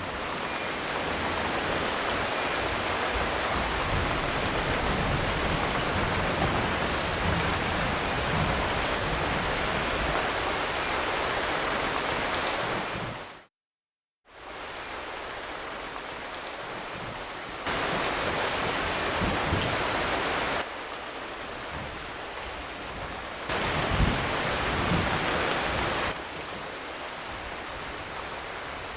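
Steady heavy rain ambience. Around the middle it cuts out completely for under a second, then comes back quieter, and twice after that it steps up in level for a few seconds at a time.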